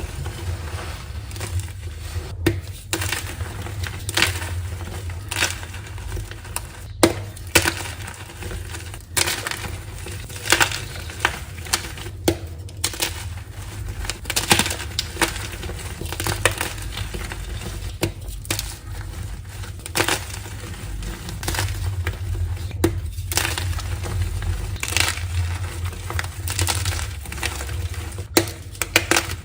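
Dyed gym chalk blocks being crushed, with dense, irregular crunching and crackling as the chalk breaks and crumbles. A steady low hum runs underneath.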